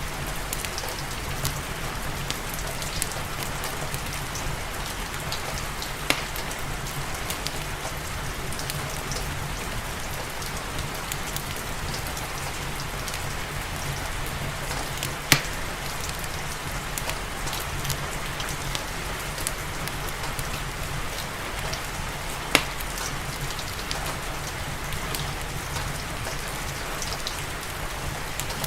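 Steady rain mixed with a crackling fireplace: an even hiss of rain with a few sharp pops, the loudest about halfway through and again about three-quarters of the way in.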